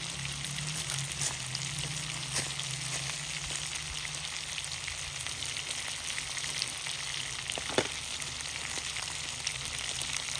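Steady sizzling, crackling hiss dotted with many small ticks, like food frying, with one sharper crack near eight seconds in.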